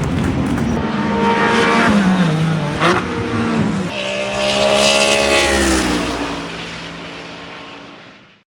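GT race cars with heavily muffled exhausts passing trackside: engine note dropping as a car slows, a sharp crack about three seconds in, then engines revving up through the gears and fading away. The sound cuts off suddenly near the end.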